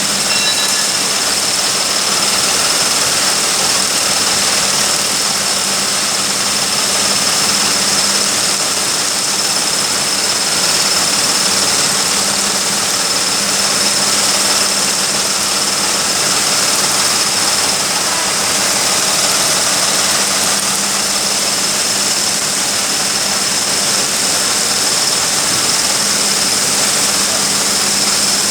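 Steady industrial roar of a blast furnace cast house during tapping, with a thin high whine and a low hum over it.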